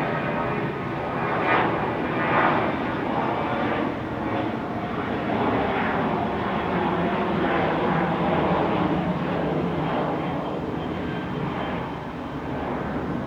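Airliner engines at close range: a loud, steady rumble that eases slightly near the end.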